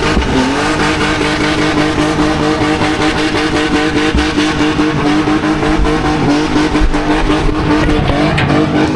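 Car engine held at steady high revs during a burnout, dipping briefly just after the start and again near the end, with the hiss of spinning tyres underneath.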